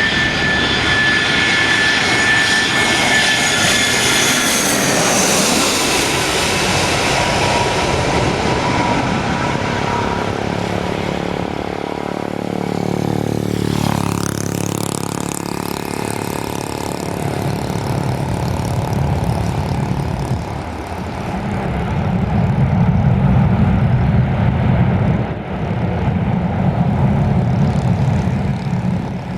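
An airliner passing close by, its engines whining with several high tones that slide downward as it goes past about 14 s in. A deep, heavy rumble from its engines follows for the rest of the time.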